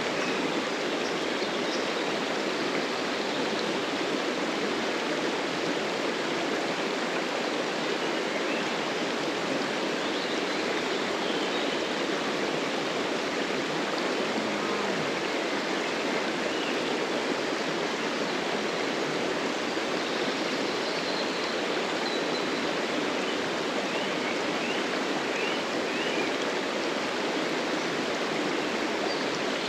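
A stream of running water flowing steadily, an even rushing sound with no change throughout.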